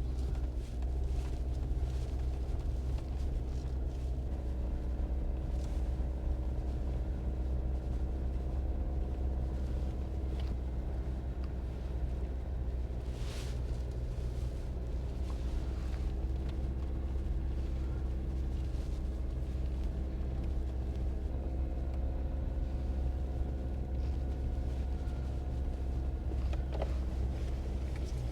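Jeep driving along an unpaved road, heard from inside the cabin: a steady low rumble of engine and tyres with a constant hum over it and a few light knocks from the road surface.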